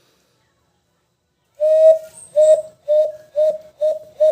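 Hand whistle blown through cupped hands: short bird-like notes at one steady pitch. They begin about a second and a half in and repeat faster and faster, reaching about three a second near the end.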